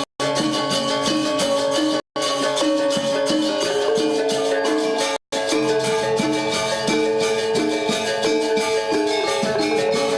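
Balinese gamelan gong ensemble playing a classical lelambatan piece, with bronze metallophones ringing out a steady, many-note melodic pattern. The sound cuts out completely for a split second three times: right at the start, about two seconds in, and about five seconds in.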